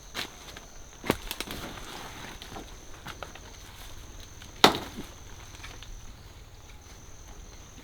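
Banana leaves being chopped: a few sharp chops, the loudest about four and a half seconds in.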